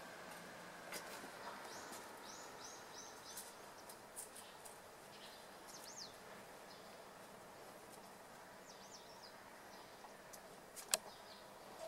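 Quiet outdoor background with a small bird chirping in quick runs of short, high notes. A few soft ticks, and one sharp click near the end, the loudest sound.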